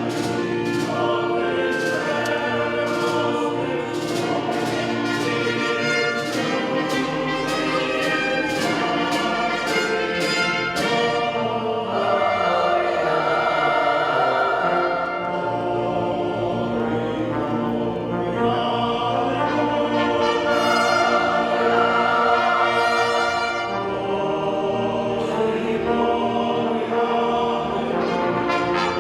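Live orchestra with brass and percussion playing, with regular drum or cymbal strokes for the first ten seconds or so; from about twelve seconds in a choir sings with the orchestra.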